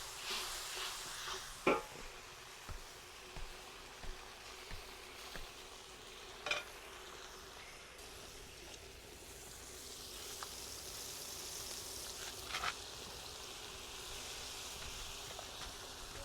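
Food frying and sizzling while it cooks, the sizzle growing stronger about ten seconds in. Three sharp knocks are spread through it.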